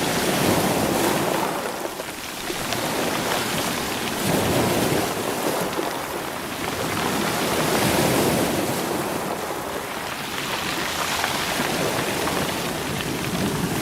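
Sea waves surging over a rocky shore and rolling the stones, a continuous rushing wash that swells and ebbs every three to four seconds.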